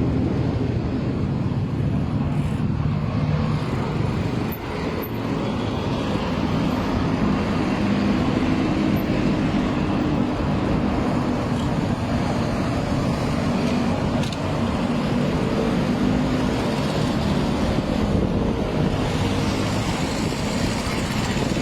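Steady road traffic of cars and larger motor vehicles, with a continuous engine hum and tyre noise.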